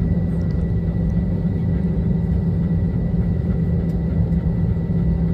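Steady low drone of a jet airliner's cabin while waiting to take off.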